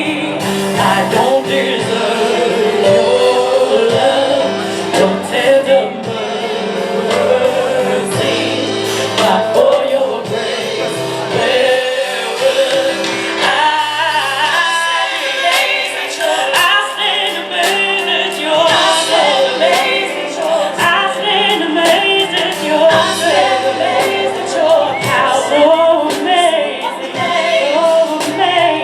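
Gospel vocal group singing a worship song live over piano and drums, the voices holding and bending long notes without clear words.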